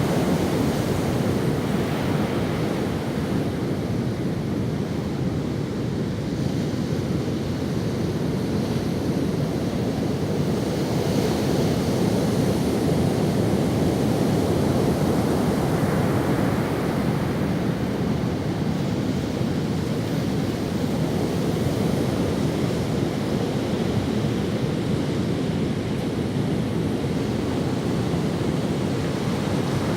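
Ocean waves washing onto a sandy beach, a continuous surf wash that swells and eases slowly.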